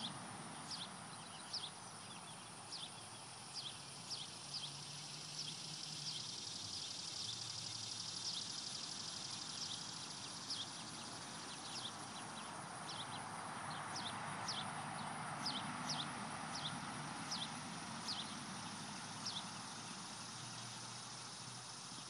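Outdoor field ambience: a small bird gives short, sharp chirps every second or so, with a few seconds' pause in the middle, over a steady outdoor hiss.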